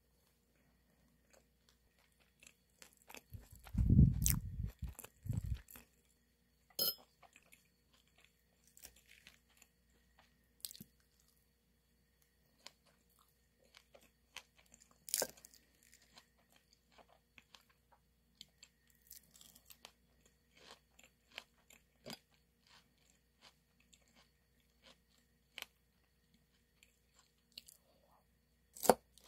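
Close-up eating sounds: a burst of crunchy chewing about four seconds in, then scattered light clicks of a metal fork against the plate and salad bowl, with a sharper click near the end.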